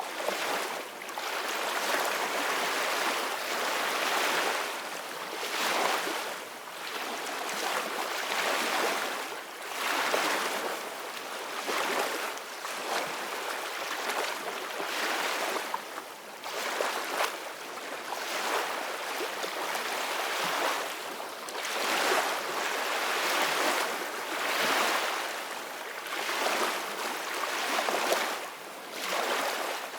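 Ocean waves breaking and washing on a beach, a continuous hiss that swells and ebbs every couple of seconds.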